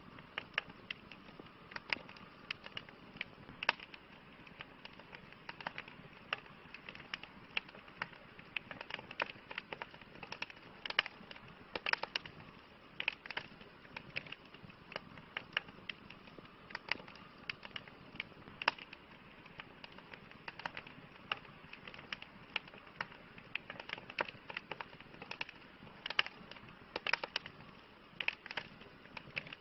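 Campfire crackling: a soft steady hiss of burning wood with frequent irregular sharp pops and snaps, some in quick clusters.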